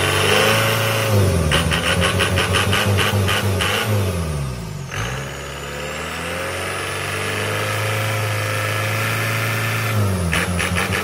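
Isuzu 4JB1 four-cylinder diesel engine being revved. The pitch climbs about a second in and holds high with a rapid pulsing clatter, drops back to a steady idle around five seconds, then climbs again near the end.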